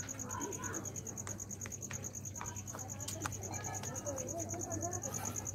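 Insect chirping in a steady, fast pulsed trill, with a low hum underneath.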